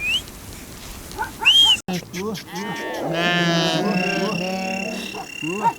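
A flock of sheep bleating, with several long calls overlapping, one held steady for about two seconds. There is a sudden break a little under two seconds in, and after it the calls grow fuller.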